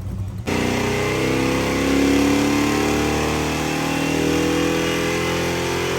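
Car engine running hard at high revs, starting abruptly about half a second in; its pitch rises a little, then holds steady.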